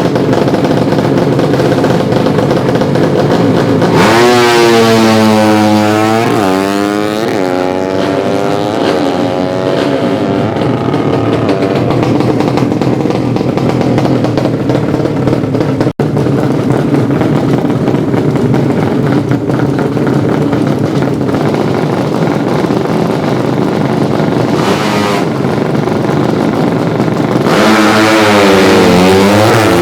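200cc underbone drag-racing motorcycle engines running loud, revving up from about four seconds in with the pitch climbing in several steps, then running steadily. They rev up again near the end.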